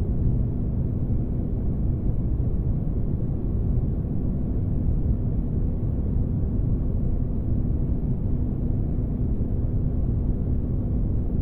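Sci-fi spaceship ambience: a steady, deep engine-like rumble with a faint constant hum, unchanging throughout.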